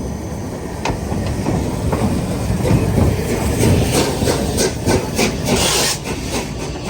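Steam train running on the line, a heavy rumble with clatter of wheels over the rails, and a burst of steam hiss about five seconds in.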